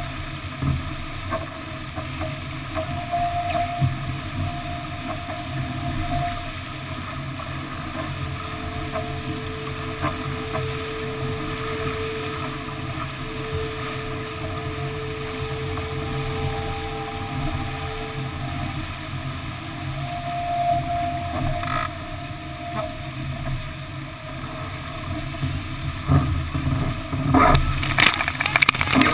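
Steady rush of wind and water past a Melges 24 sportboat planing under spinnaker in strong wind, heard through a GoPro's waterproof housing. A faint steady humming tone comes and goes in the middle. Loud, ragged splashing comes in over the last few seconds.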